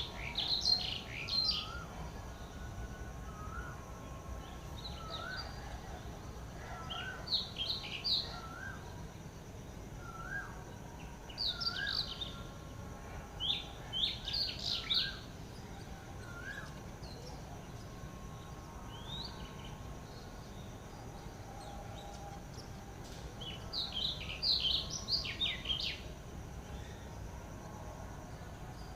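Wild birds chirping in several short bursts of quick, high notes, while another bird repeats a short, lower rising call about once a second through the first half.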